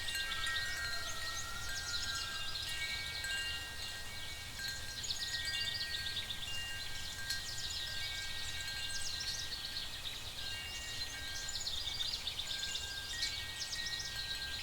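Night-forest fantasy ambience: several high, sustained chime-like tones ringing and overlapping, over a steady layer of quick high chirping like night insects. Near the start, a softer call slides briefly up and down in pitch underneath.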